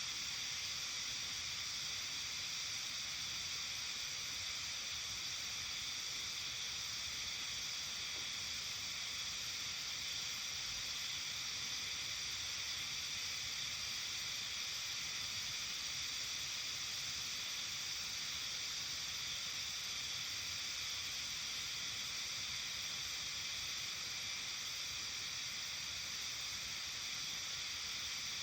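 Steady, high-pitched evening chorus of many calling insects, unchanging throughout, over a faint low rumble.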